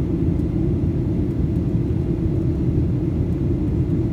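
Steady low rumble of a Boeing 737 in flight, heard inside the passenger cabin: engine and airflow noise with no change in level.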